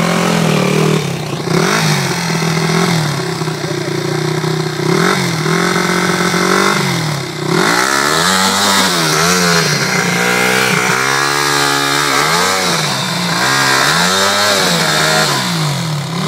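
Yamaha WR enduro motorcycle engine running, revved to drive the rear wheel up over a rock step while the rider walks it. The revs hold fairly steady for the first several seconds, then rise and fall in a series of repeated blips.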